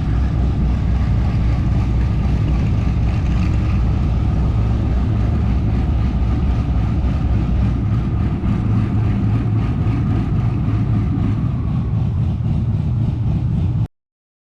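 Twin-turbocharged Camaro engine running steadily with a deep, even rumble, which cuts off abruptly near the end.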